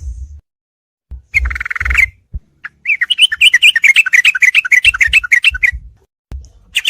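Yellow-vented bulbul song from a bird-training tutor recording: a short buzzy chatter, then a long run of rapid chirping notes lasting about three seconds.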